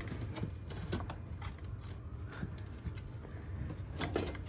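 Vintage Email wall exhaust fan running with a steady low hum, with a few sharp clicks near the end.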